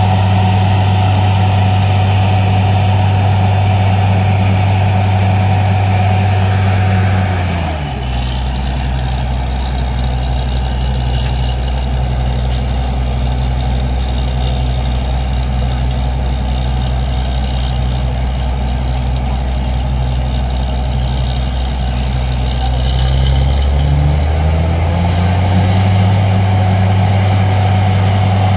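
Borewell drilling rig's diesel engine running steadily, dropping to a lower speed about seven seconds in and climbing back up to its higher speed near the end.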